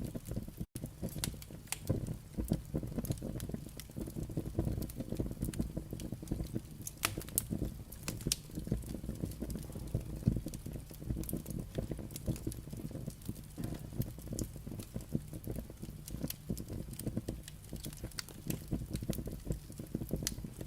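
Burning firewood crackling, with many irregular sharp pops and snaps, several a second, over a steady low rumble of the flames.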